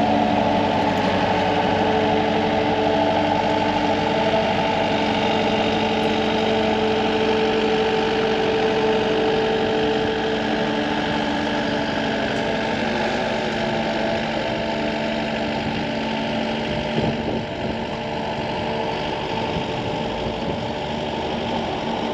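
Diesel dump truck engine running steadily, with a constant low hum that eases off a little about halfway through.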